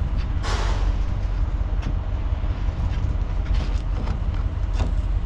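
Truck engine idling with a steady low rumble. A brief rush of noise comes about half a second in.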